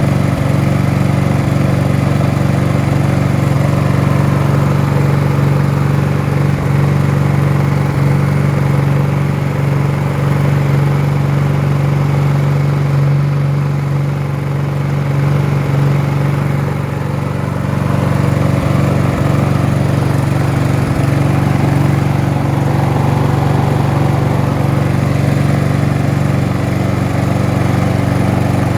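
Gasoline lawn mower engine running steadily, easing off slightly for a few seconds about halfway through.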